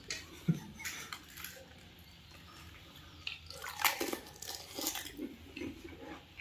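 Pani puri being eaten: crisp hollow puri shells crunching between the teeth, then wet chewing of the water-filled puris. The crunching comes in short bursts, loudest about four seconds in.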